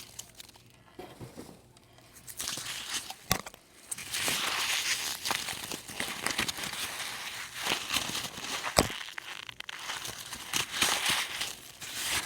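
Packing peanuts being handled and squeezed, crackling. Sparse at first, then dense crackling and rustling with sharp snaps from about four seconds in.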